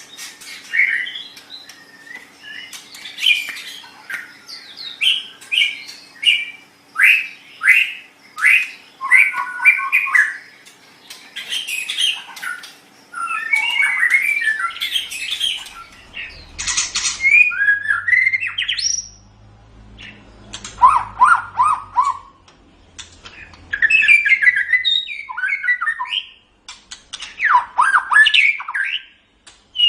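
White-rumped shama (murai batu) singing a long, varied song of whistled phrases, sweeping notes and rapid chattering runs, with short pauses between phrases.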